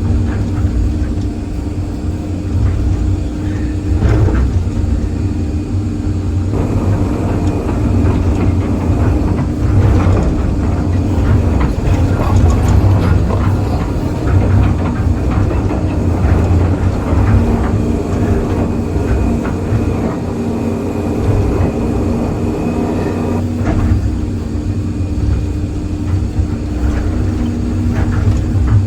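Excavator's diesel engine running steadily under load. From about six seconds in until about twenty-three seconds in, there is a long stretch of rapid clanking and crunching as the machine works.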